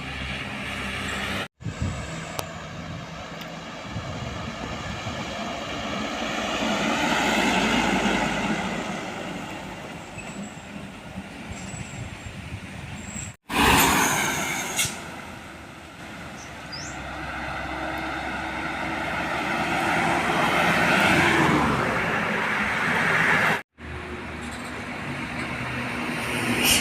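Heavy diesel trucks passing one after another on a road, the engine and tyre noise swelling and fading as each goes by, with several abrupt cuts between passes. A short loud burst comes just after the cut about thirteen seconds in.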